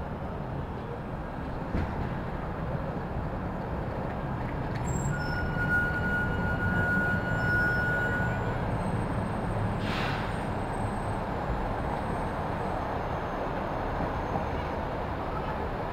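Steady city street traffic noise, with a high, thin squeal lasting a few seconds around the middle and a short hiss about ten seconds in.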